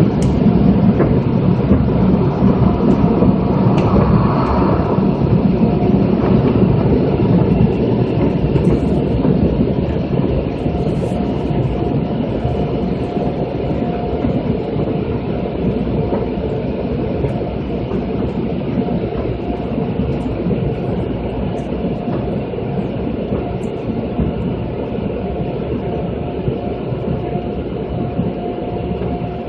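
Automatic car wash machinery running: a loud, steady rumble of brushes and water spray with a faint steady whine, easing off gradually after about eight seconds.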